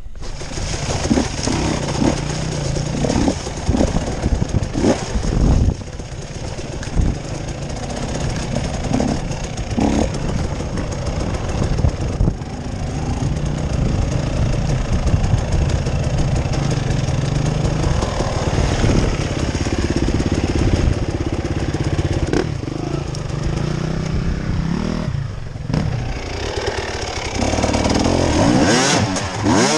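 Off-road motorcycle engine running under varying throttle while riding a rough trail, with knocks and clatter from the terrain. The engine revs up near the end.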